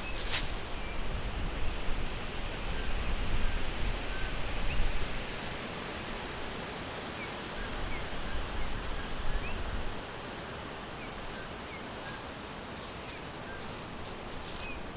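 Forest ambience: a steady hiss with a low rumble through the first few seconds and again just past the middle. Faint, short, scattered bird chirps run under it.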